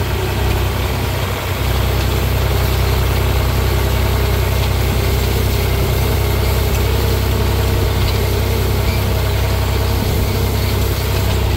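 Farm tractor engine running steadily with a deep, even hum while pulling a hay tedder.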